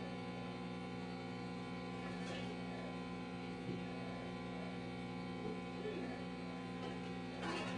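A steady electrical hum made of several evenly spaced tones, with a few faint brief sounds over it.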